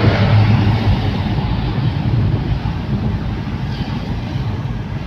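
A 1991 Ford Laser Gala cruising at speed, with steady engine and road noise under a constant low drone.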